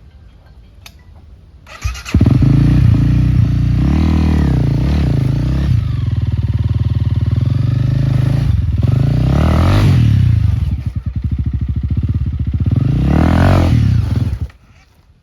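Enduro dirt bike engine coming in abruptly about two seconds in, running with several rising and falling revs, then cutting off abruptly near the end.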